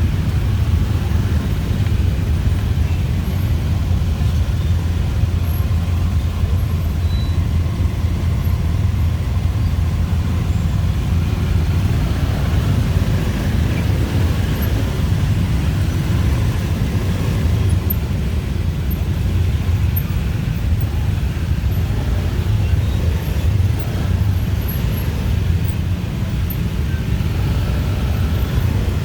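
Dense rush-hour city traffic of motorbikes, cars and tuk-tuks: a steady low rumble of engines and road noise that never lets up.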